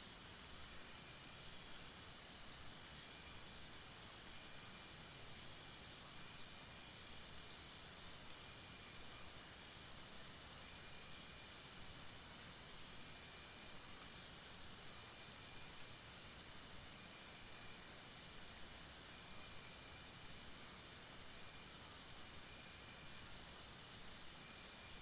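Night-time jungle insect chorus: steady, pulsing high trills of crickets and other insects, with short groups of very high chirps recurring and a few brief high calls.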